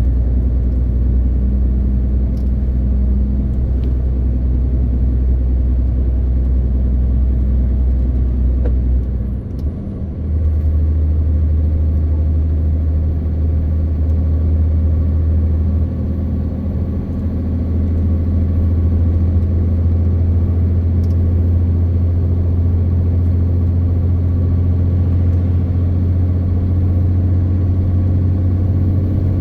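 MAN TGX 18.520 truck's six-cylinder diesel running under way, heard from the cab as a steady low drone. About ten seconds in the drone dips for a moment and comes back at a higher pitch, a gear change.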